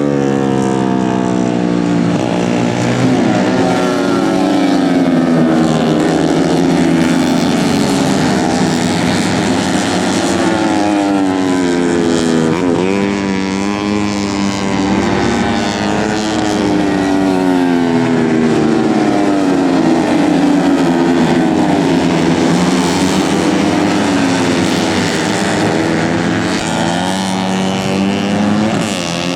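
Several tuned 130 cc four-stroke underbone racing motorcycles running hard at high revs, their engine notes overlapping and rising and falling again and again as they accelerate, shift gears and pass by.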